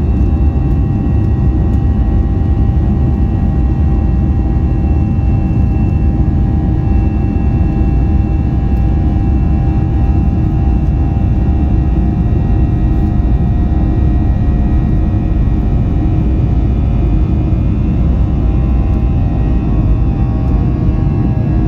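Boeing 737 jet engines heard from inside the cabin: a steady, loud low roar with constant whining tones above it.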